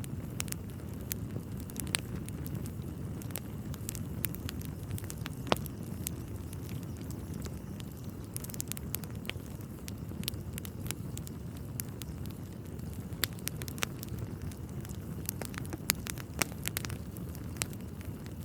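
Wood fire burning in a fireplace: a steady low rumble of flames with irregular sharp crackles and pops from the burning logs, a few louder pops standing out.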